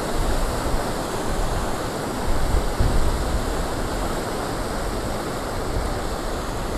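Steady rushing noise with wind buffeting the microphone in low rumbling gusts, heaviest about two and a half seconds in.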